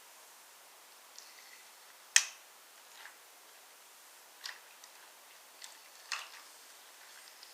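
Sharp clicks and knocks of wooden toy trains and wooden track, about six in all and irregularly spaced; the loudest is about two seconds in and another comes near six seconds in.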